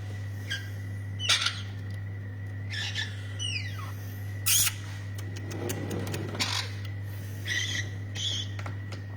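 Young parrots giving a series of short, separate calls and squawks, one of them a squeal that falls in pitch about three and a half seconds in. A steady low hum runs underneath.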